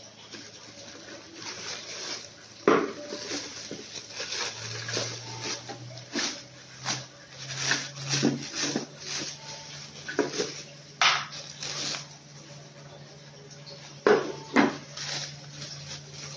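Dishes and a plastic microwave food cover clattering as they are handled, with a few sharp knocks, over a low steady hum.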